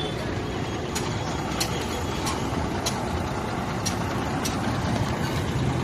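Car engine running steadily with a low hum, with light sharp clicks about every half second from about a second in.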